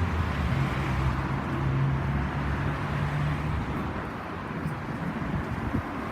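Road traffic: a motor vehicle's engine hum, steady and then fading out a little past halfway, over the wash of passing traffic.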